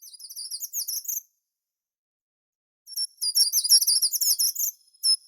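A songbird singing two quick, high-pitched phrases: a short one at the start, then after about a second and a half of silence a longer, louder one.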